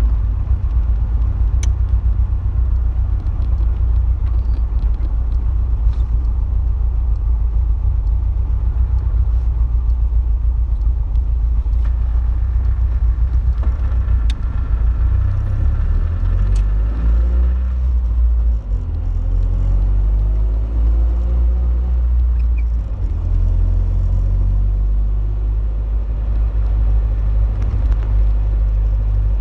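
Open-top car's engine and road noise: a steady low rumble while driving. Past the middle the engine pitch rises twice as the car speeds up.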